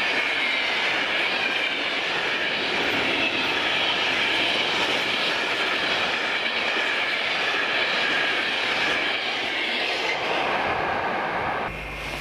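Freight train of container and trailer flat wagons rolling past: steady wheel-on-rail noise with a faint high squeal over it. Near the end the train sound cuts to music.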